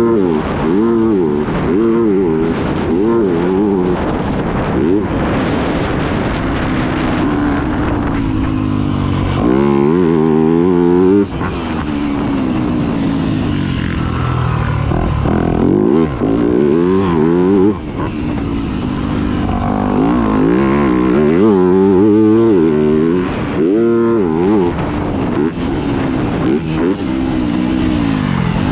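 Yamaha YZ250F's single-cylinder four-stroke engine being ridden hard, its pitch rising and falling again and again with throttle and gear changes, with repeated sharp rising revs.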